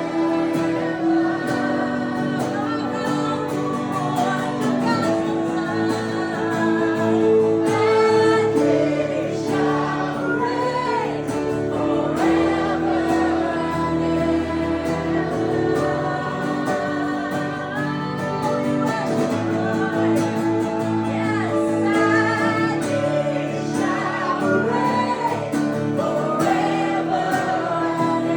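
Live acoustic worship music: singing voices with held, bending melodic lines over steady sustained chords from acoustic guitar accompaniment.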